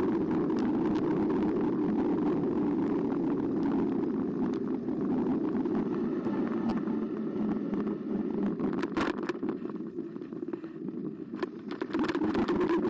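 Carbo X electric bike being ridden: a steady motor hum with tyre and wind noise, easing off somewhat about two-thirds of the way in, with a few light clicks near the end.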